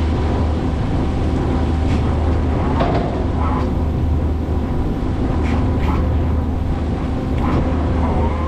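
A prawn trawler's engine running steadily with a low drone, with a few short knocks and clatters on top.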